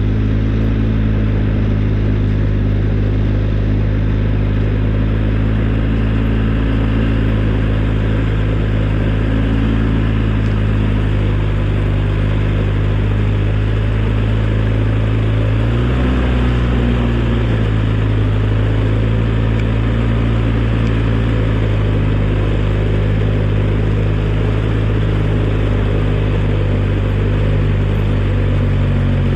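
Engine of a snowplow vehicle running steadily while plowing snow, its pitch shifting briefly a little past halfway before settling again.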